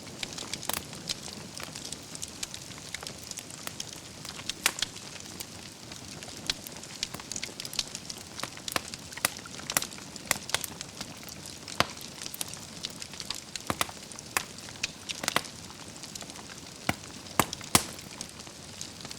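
Wood fire burning in a fireplace: a steady low rush of flames with frequent sharp, irregular crackles and pops from the burning logs, a few louder pops near the end.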